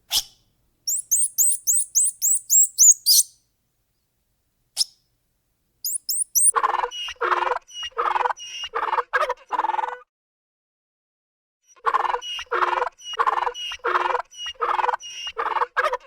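A run of quick, high, falling bird chirps. After a silent gap come two long series of evenly repeated animal calls, about two a second, with a pause between them.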